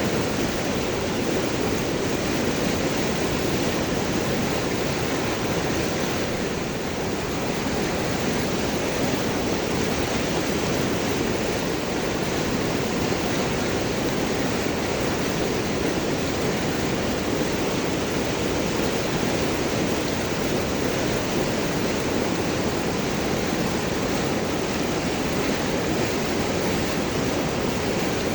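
River water flowing over and around large rocks: a steady, unbroken rush with gurgling.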